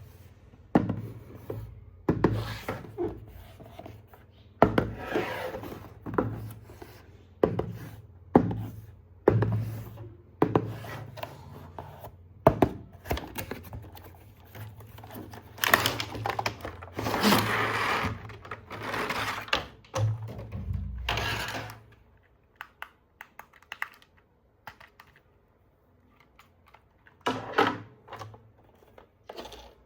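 Irregular knocks, taps and rubbing of hard plastic toys and packaging being handled, with a few longer noisy bursts; it goes mostly quiet about two-thirds of the way through, apart from a couple of knocks near the end.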